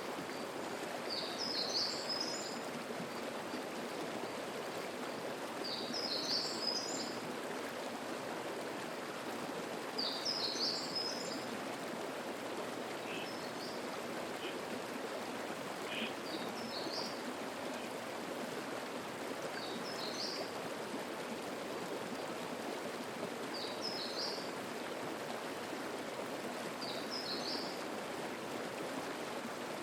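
Mountain stream babbling steadily over rocks, with a songbird repeating a short, high song phrase about every three to four seconds.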